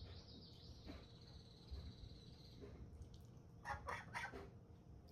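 A chicken clucking a few short times in quick succession, a little past halfway, after a thin, high warbling chirp in the first half.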